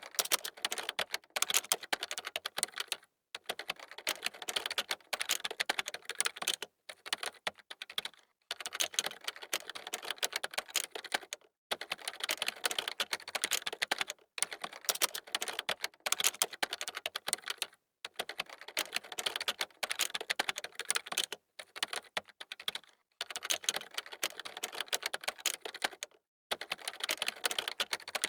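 Fast typing on a computer keyboard: dense runs of key clicks, broken by brief pauses every few seconds.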